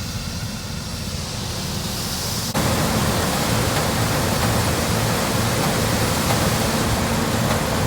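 Steady rushing noise of running harvest machinery with a low engine hum underneath, stepping up suddenly about two and a half seconds in.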